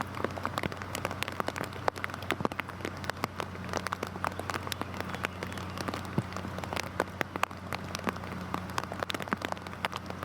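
Heavy rain falling, with many sharp, irregular drop impacts spattering on a hard surface over a dense steady hiss, and a faint steady low hum underneath.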